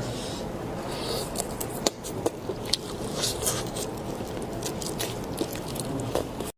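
A person chewing and biting food close to the microphone, with a few sharp crunching clicks about two to three seconds in. The sound stops abruptly near the end.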